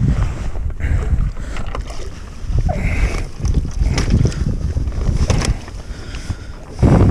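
Water and wind noise rumbling on the microphone of a kayak at sea, with scattered knocks and clicks and a louder thump near the end.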